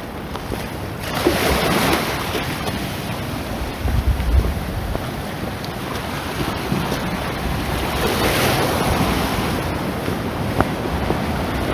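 Sea waves washing onto the shore, surging twice a few seconds apart, with wind buffeting the microphone.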